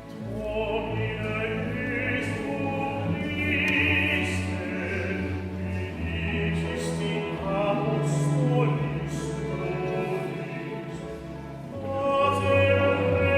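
Classically trained voice singing with vibrato, accompanied by a chamber orchestra, as a sung Mass setting is performed.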